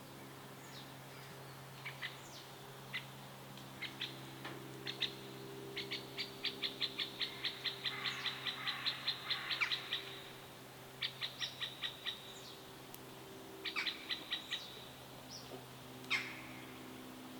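Songbirds chirping in rapid trills of short, high repeated notes. The longest run goes at about five notes a second, with shorter runs after it and a single down-slurred note near the end, over a faint steady low hum.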